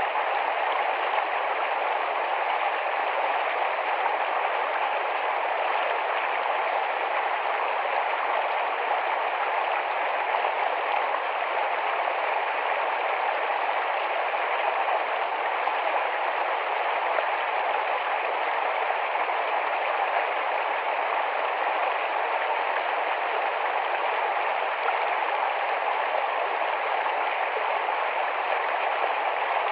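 Shallow, fast-flowing forest stream running over rocks, a steady, even rush of water.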